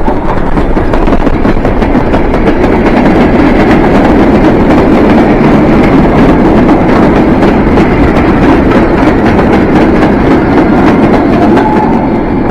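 A train running past close by, a loud steady rumble of wheels on rails with scattered sharp clicks. It fades near the end.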